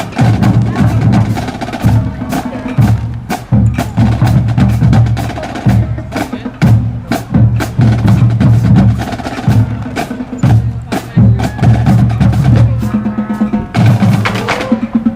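A band playing: strong low brass-like notes in a steady rhythm over drums and sharp percussion hits, with rising slides near the end.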